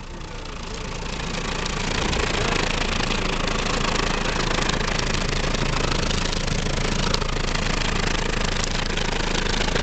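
Chrysler PT Cruiser engine revved and held, its exhaust rushing out through a latex glove and plastic bottle taped over the tailpipe. The sound builds over the first two seconds, then stays steady and loud.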